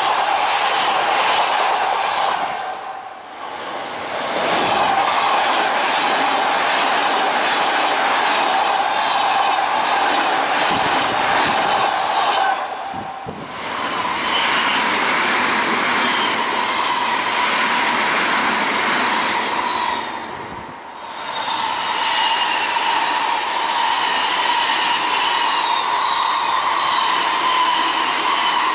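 Odakyu commuter electric trains passing at speed one after another, with brief dips in sound between them. Their wheels clatter in a steady rhythm over the rail joints, and a steady high-pitched whine runs through each passing.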